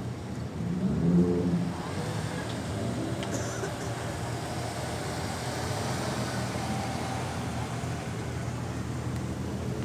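Lowered custom cars creeping past at walking pace, their engines running low and steady, with a short blip of engine and exhaust note about a second in and a fainter one near three seconds.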